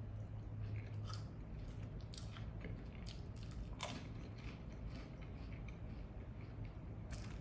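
Close-up chewing of a mouthful of crunchy fried tortilla-chip tostada shell with salad greens and ranch dressing: scattered crunches, the loudest about four seconds in, over a low steady hum.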